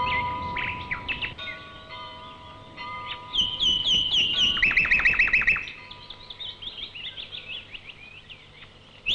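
Birdsong: a loud run of quick, repeated chirps about three to six seconds in, then softer scattered chirps. Bell-like ringing tones sound and fade in the first few seconds.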